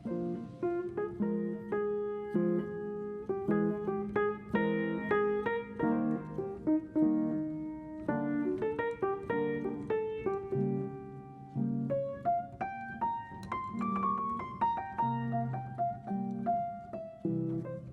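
Background piano music, notes and chords played continuously.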